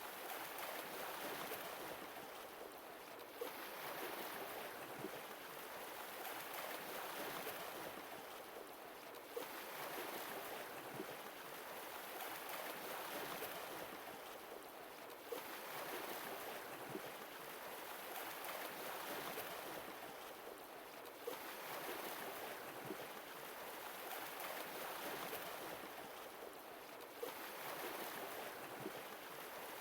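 Sea waves washing onto a shore: a rush of surf that surges and fades away about every six seconds.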